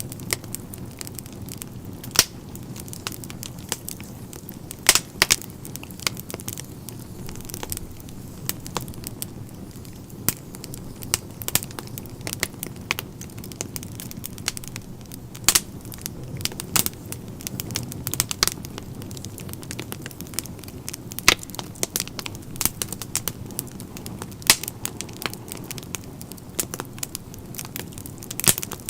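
Wood fire crackling in a fireplace: a steady low rumble of flames with frequent irregular sharp pops and snaps, a few of them much louder.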